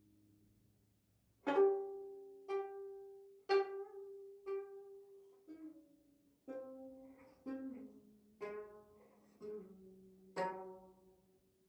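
Sanjo gayageum played solo: after a soft lingering note, single plucked strings sound about once a second, each ringing and dying away, with a few notes shifting pitch after the pluck in the middle.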